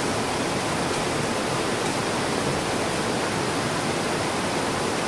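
Heavy rain falling on translucent roof sheets: a steady, dense hiss with no breaks.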